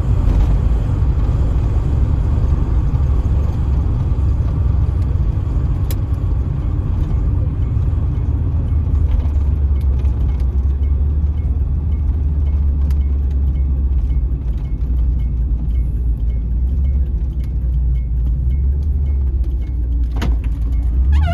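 Car driving along the road heard from inside the cabin: a steady low rumble of engine and road noise, with a few faint clicks.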